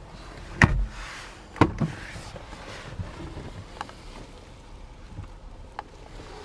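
A few sharp knocks and clicks: a heavy knock with a low thud about half a second in, a double knock about a second later, then a few faint ticks.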